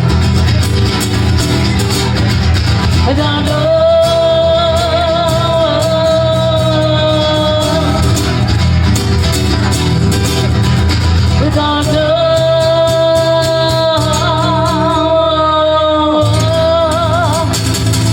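Band music with a steady low accompaniment, carrying two long held notes with vibrato, each about four seconds long.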